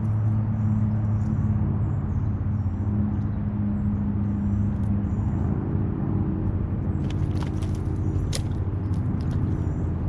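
An engine running steadily at one constant speed, giving an even low hum, with a few light clicks in the later part.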